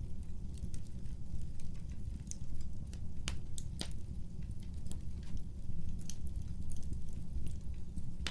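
Wood fire burning, with a steady low rumble of flames and irregular sharp crackles and pops, two of the louder pops a little past the middle.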